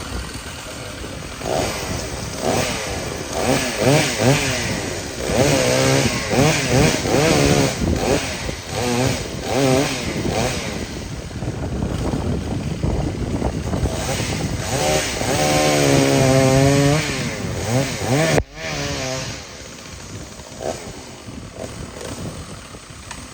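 Large professional chainsaw running under load, its engine pitch rising and falling again and again as the throttle is worked through a cut. About eighteen seconds in the sound drops off suddenly to a quieter, steadier engine note.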